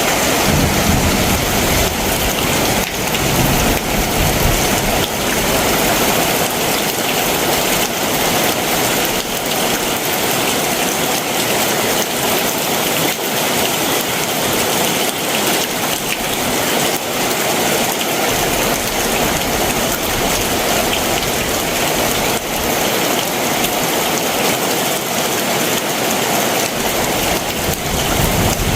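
Heavy summer monsoon downpour falling steadily, a dense even hiss of rain with scattered drop ticks.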